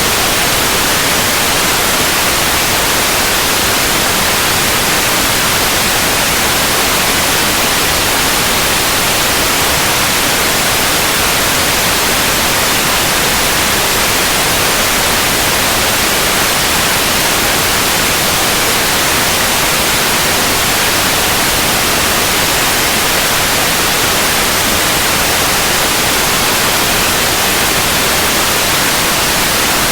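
Continuous synthetic white noise: a steady, even hiss with no change and no other sound.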